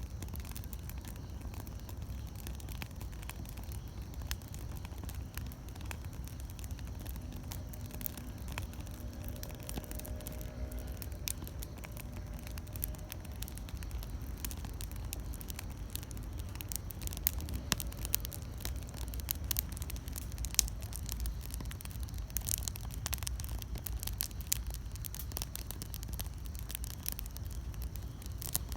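Wood campfire burning and crackling, with scattered sharp pops over a low steady rumble; the crackling gets busier in the second half, with a few louder snaps.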